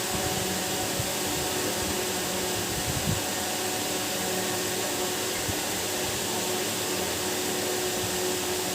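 Steady whirring hiss with a low electrical hum, like a fan or other small motor running, with a brief low knock about three seconds in.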